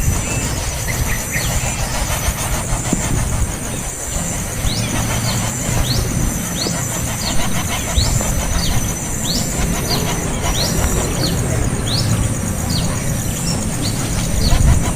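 Small bird calling a run of about fourteen short, thin rising chirps, one every half second or so, starting about a third of the way in and stopping near the end. Behind it are a steady high-pitched drone and a low rumble.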